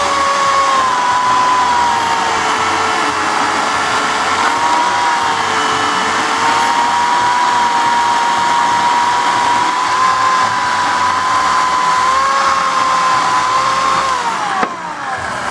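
Homelite 14-inch electric chainsaw running with a steady motor whine that dips and recovers in pitch as it bogs under load in a cut. Near the end the trigger is released and the motor winds down with a falling whine.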